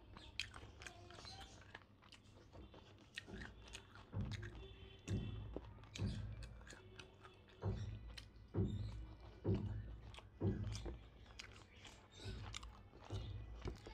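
A person chewing a mouthful of rice and chicken curry, with wet mouth clicks and a soft chewing thump about once a second.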